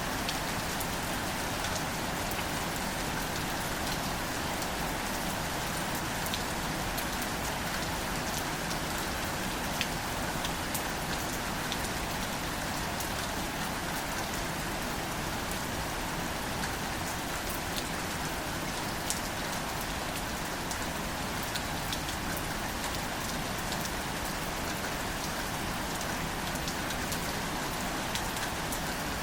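Steady gentle rain falling on greater celandine wildflowers: a continuous soft hiss with scattered sharp ticks of single drops.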